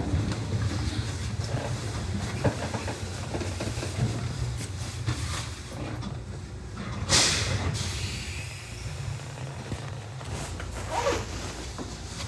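Nishitetsu 600 series electric train running on the rails with a steady low rumble. A short, loud hiss of air comes about seven seconds in.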